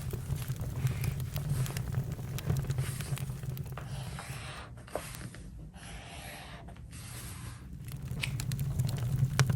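Campfire crackling, with many sharp little snaps over a steady low rumble. It grows quieter for a few seconds in the middle and then comes back.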